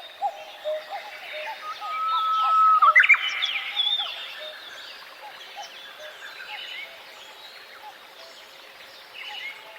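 Several birds chirping and calling, with one held whistled note about two seconds in and a louder flurry of calls around three seconds.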